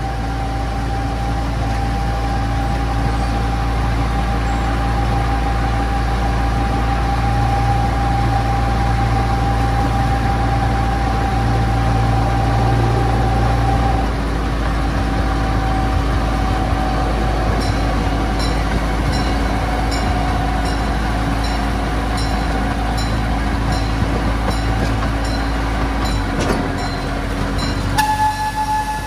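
A miniature park train running along its track: a steady engine rumble with a steady whine on top. A regular clicking, about one and a half a second, joins in a little past the middle, and near the end a steady horn note starts.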